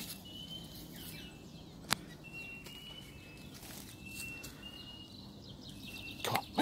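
Short, thin, high whistled bird calls repeated every second or so over a quiet outdoor background, with a single sharp click about two seconds in and a rustle of leaf litter near the end.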